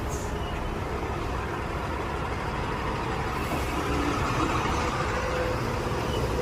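Heavy truck running on the road: a steady low engine and road rumble that swells slightly past the middle.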